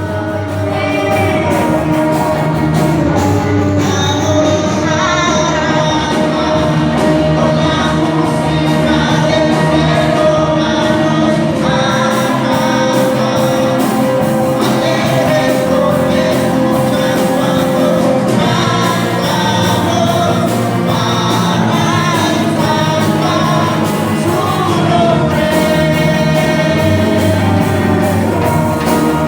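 Gospel worship music: a band playing with voices singing over it, driven by a steady drum beat, with a long held note from about twelve to eighteen seconds in.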